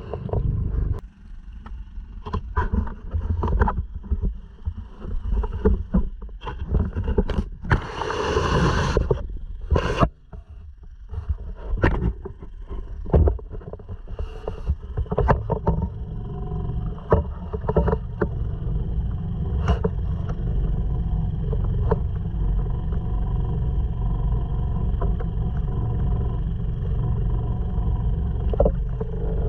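Irregular knocks and bumps, with a couple of short loud rushes of noise, over the first half. Then, from about halfway, the steady low running of a Honda 2.3 outboard, a small single-cylinder four-stroke, pushing a sea kayak.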